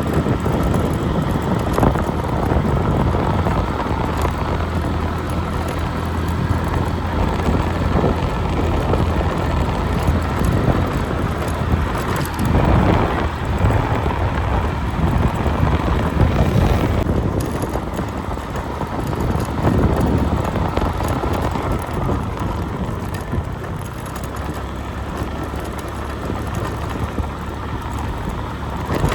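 A motor running steadily with a low hum, with wind noise on the microphone.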